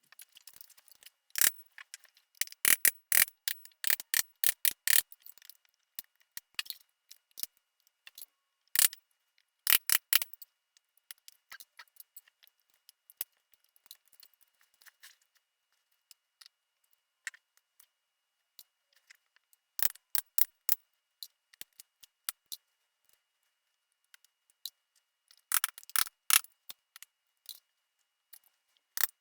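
Irregular sharp clicks and snaps of upholstery staples being pried loose and clipped off a recliner's wooden back frame, coming in several clusters with pauses between.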